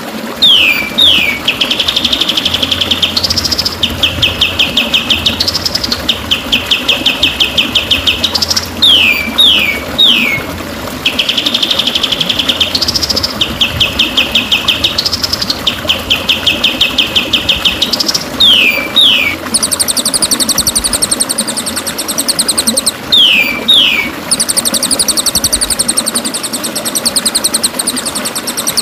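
White-rumped shama (murai batu) song used as training audio: pairs of sharp falling whistles alternating with long, rapid buzzy trills. The phrase sequence repeats about every eight seconds, and the trills shift higher in the last third.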